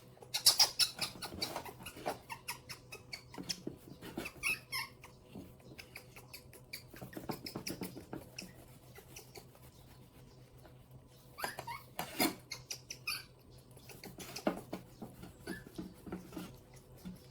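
Pet monkeys giving a few short, high squeaks among scattered clicks and rustling, quieter for a couple of seconds in the middle.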